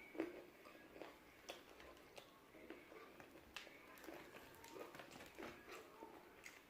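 Faint close-up chewing and crunching of crispy fried chicken: a run of short, irregular crunches and mouth clicks, the loudest one just after the start.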